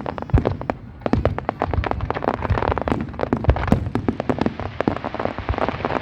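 Fireworks display: a dense, rapid run of sharp bangs over continuous crackling, easing briefly about a second in before picking up again.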